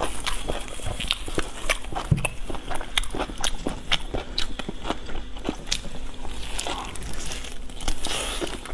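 Close-miked chewing and lip smacking of chewy braised meat, with many short, sharp wet clicks from the mouth coming irregularly.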